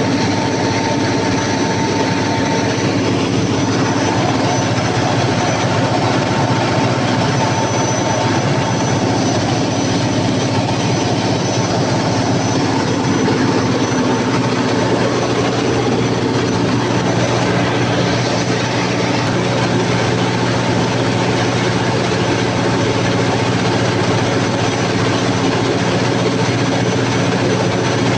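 Cummins KTA50 16-cylinder turbocharged diesel generator set running steadily and loudly during a load test after a general overhaul.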